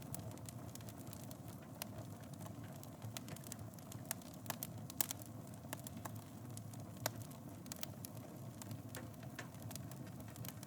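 Fireplace wood fire burning with a steady low rumble and frequent irregular crackles and pops, one louder pop about halfway through.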